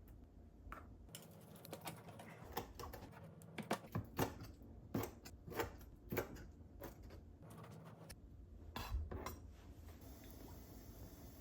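Irregular light clicks and clinks of kitchen utensils and dishes being handled, a couple of dozen small knocks over most of the stretch and then tailing off near the end.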